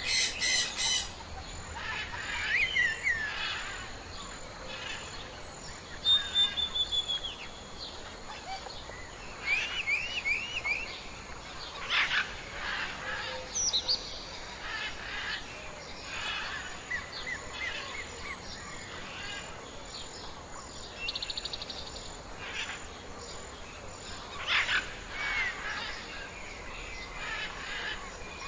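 Several wild birds calling and singing over one another: short chirps, whistled notes in quick series and brief rapid trills, scattered throughout, over a steady outdoor hiss.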